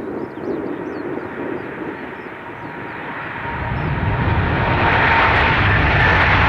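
Jet engine noise of a departing Boeing 787-10 growing steadily louder as it approaches. A deep rumble builds up under a high whine that drops slightly in pitch.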